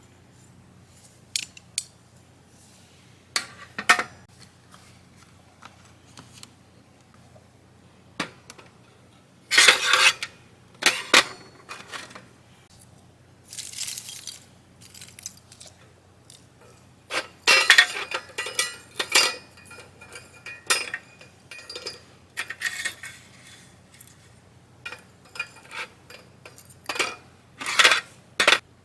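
Light metal clinks and clatter at irregular intervals, from handling a small metal compact camp stove and setting it up for use, with several louder rattling bursts about ten, eighteen and twenty-eight seconds in.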